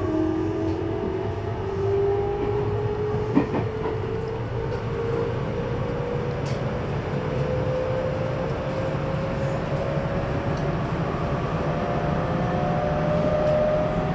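Running sound inside a Tobu 20400 series motor car: the Toyo GTO-VVVF inverter and traction motors whine in several tones that climb slowly in pitch as the train gathers speed, over a steady rumble of wheels on rail. A single sharp click comes about three seconds in.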